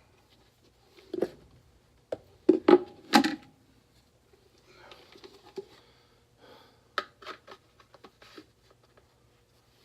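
Clicks and knocks of parts and tools being handled during work on a gas furnace's inducer motor assembly, the loudest a quick cluster of knocks about two and a half to three seconds in, with a few lighter clicks later, over a faint steady hum.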